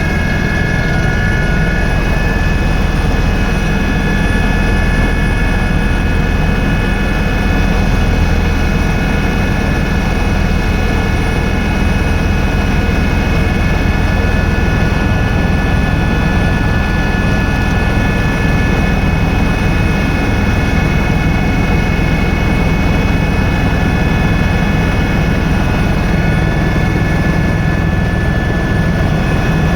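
Helicopter in flight: a steady, loud drone of rotor and engine with high, even whining tones above it, unchanging throughout.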